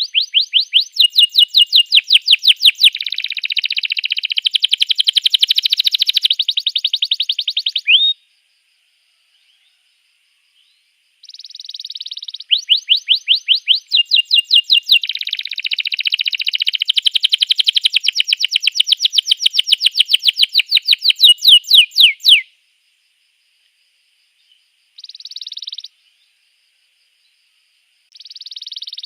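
Domestic canary singing: long songs of rapid, evenly repeated trilled notes, changing from one trill to the next. Two long songs are split by a silent gap of a few seconds, with a short burst after the second song and another song starting near the end.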